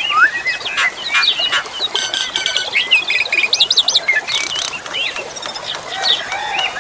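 Asian pied starling singing a varied, continuous stream of whistles, rising and falling slurs and buzzy chatter, over a steady hiss of running water.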